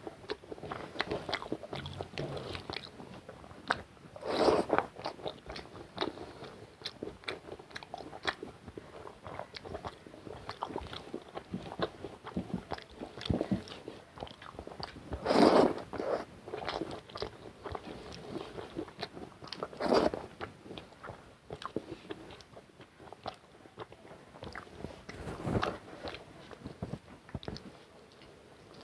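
Close-up eating sounds of a person eating rice with egg curry: steady chewing with many short wet clicks and smacks, and a few louder smacks scattered through.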